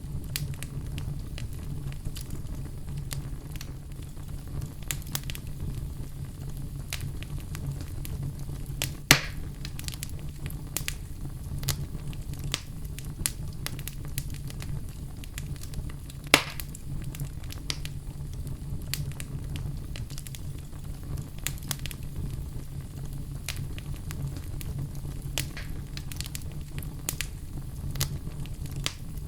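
Wood fire crackling in a fireplace: a steady low rumble with many small pops and ticks, and two louder snaps partway through.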